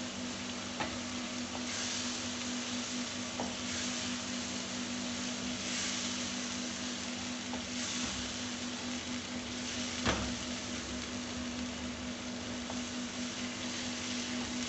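Beef mince sizzling as it fries in oil in a frying pan, stirred with a wooden spoon in sweeps that swell the sizzle about every two seconds. A few light knocks of the spoon against the pan, the clearest about ten seconds in.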